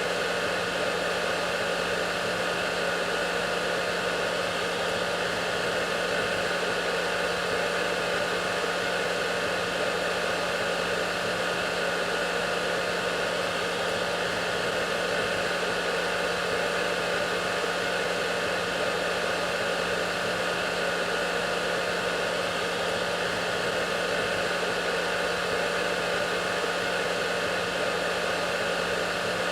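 Hair dryer running steadily: an even blowing hiss with a constant low motor hum underneath.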